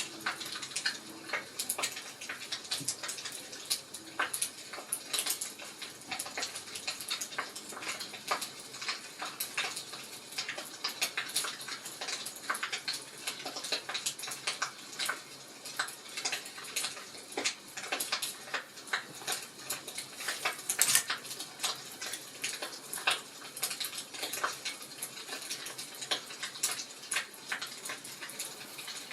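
Fireplace wood fire crackling: a steady stream of irregular small crackles over a soft hiss, with one louder crack about three-quarters of the way in.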